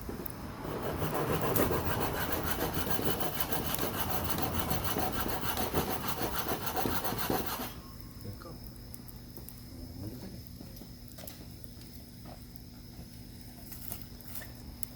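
Steady rasping scrape on wood for about seven seconds, then it stops abruptly; afterwards only a low steady hum with a few faint clicks.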